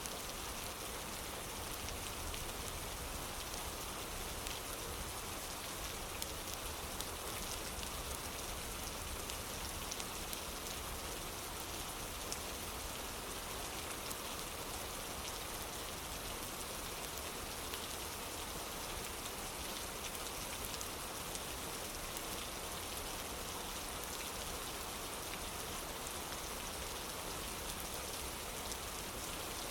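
Steady rain falling on a wooden porch: a dense, even hiss with scattered small drop ticks.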